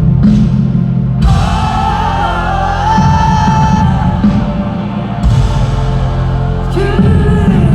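Live band music with a heavy bass line and a long sung melody line that glides and holds for a few seconds.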